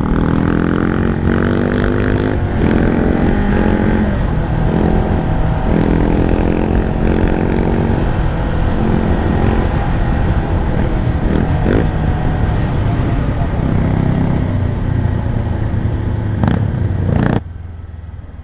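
Motorcycle engine accelerating hard through the gears to overtake: its pitch rises several times with breaks at the shifts. Heavy wind rush covers the microphone throughout and cuts off suddenly near the end.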